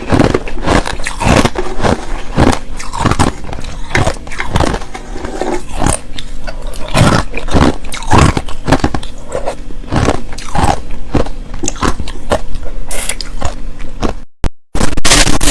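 Ice being bitten and chewed close to the microphone: clear ice and powdery crushed ice crunching and crackling, one loud crunch after another, about two a second. The sound cuts out briefly near the end, and a different, steadier sound follows.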